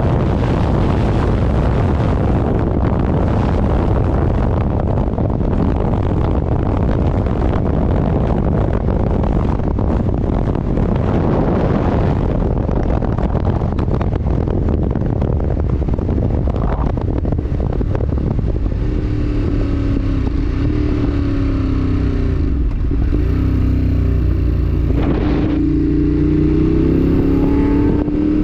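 Heavy wind rushing over the microphone of a moving motorcycle at speed, with the engine running underneath. In the last third the wind eases and the engine note comes through clearly, its pitch rising and falling as the speed changes.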